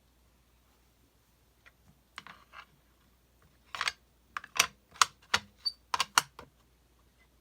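A run of about a dozen sharp clicks and taps, small hard objects knocking while craft materials are handled at a worktable, sparse at first and then quicker and louder.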